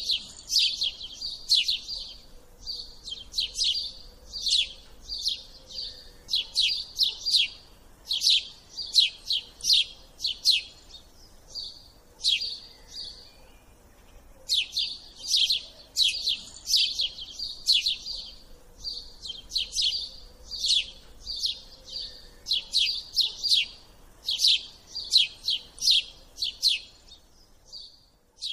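Bird chirping: quick runs of sharp, high chirps, with a pause of a few seconds about halfway through.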